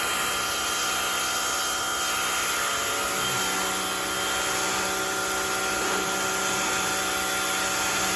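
Rock&Rocker HWY12 high-pressure washer running steadily: a motor whine under the hiss of its water jet blasting a concrete patio.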